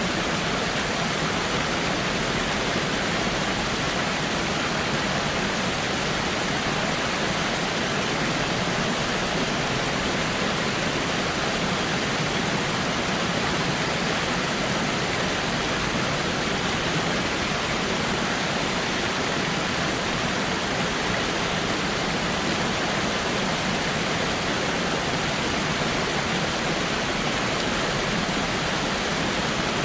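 Waterfall pouring in a steady, unbroken rush of water, with no changes or separate splashes.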